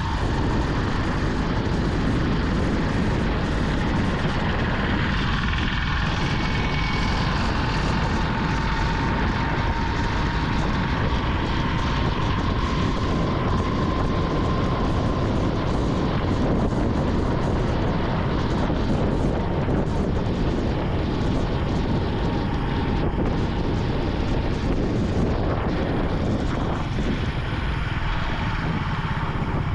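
Vintage Yamaha motorcycle running steadily under way, its engine note blended into a constant rush of wind and wet-road noise from the tyres in the rain.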